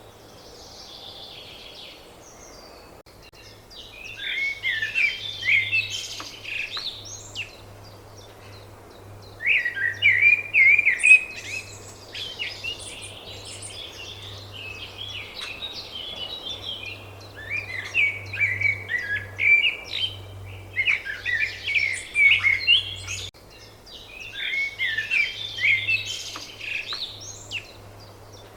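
A songbird singing in a run of quick chirping, warbling phrases, each two to three seconds long with short pauses between them.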